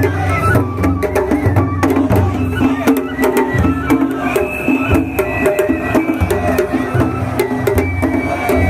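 Traditional Japanese festival music, with drums and sharp percussive clacks over a dense pitched accompaniment; a high held note enters about four seconds in.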